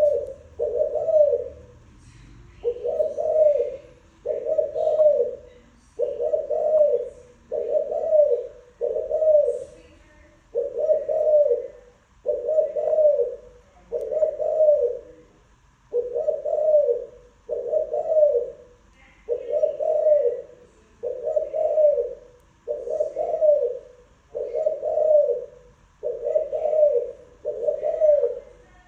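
Spotted dove of the Thai cooing breed (cu gáy Thái) cooing: a long series of short, low coos at about one a second. Faint high chirps from small birds sound behind it.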